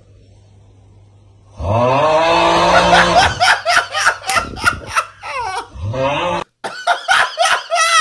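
A man laughing in a loud, wheezing, engine-like way: a drawn-out pitched note about a second and a half in, then rapid pulsing bursts, broken by a short cut and starting again.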